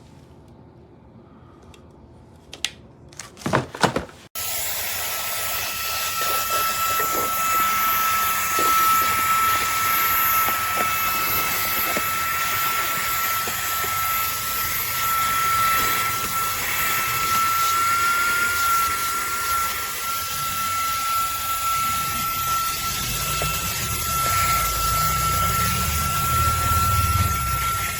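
A few clicks of handling, then the Fanttik Slim V8 Apex handheld vacuum switches on about four seconds in and runs steadily: a rush of air with a constant high whine from its motor.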